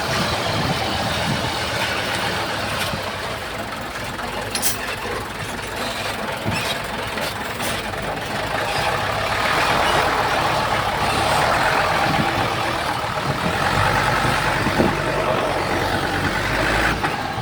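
Heavy diesel earthmoving machinery, dump trucks and a bulldozer, running steadily, with a few short clicks and knocks.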